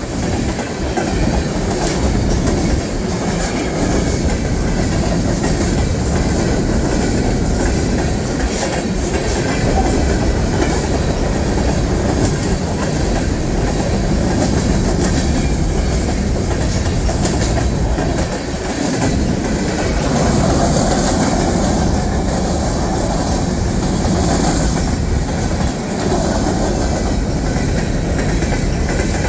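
A train rolling past at close range, its wheels clacking steadily over the rail joints.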